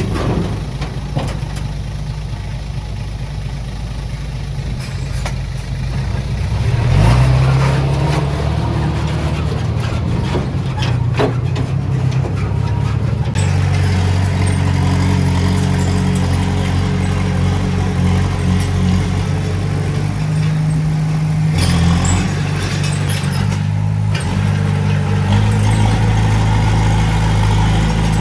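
Heavy diesel engine of earthmoving machinery running under load, surging louder about seven seconds in and settling into a stronger, steady note about halfway through, with scattered metallic clanks and knocks.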